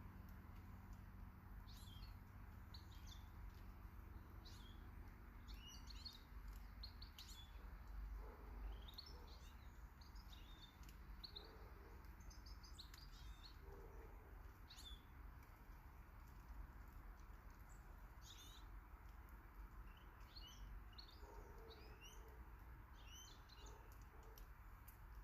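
Small garden birds chirping in short, scattered calls, faint over a steady low rumble.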